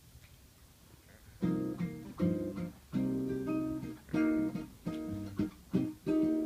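Seven-string acoustic guitar (violão de sete cordas) playing a choro introduction alone: a series of separate plucked chords, each ringing briefly before the next, starting about a second and a half in.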